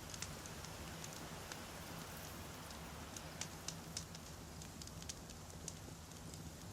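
Wood fire burning: sharp, irregular crackles and pops of burning logs, several a second, over a steady soft hiss.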